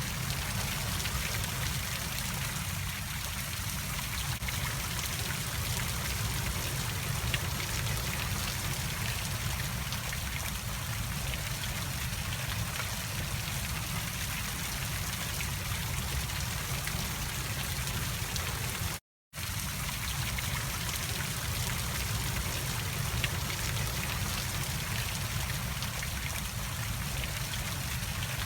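Steady rushing of a waterfall and river, an even roar of water with no pauses. The sound cuts out completely for a moment about two-thirds of the way through.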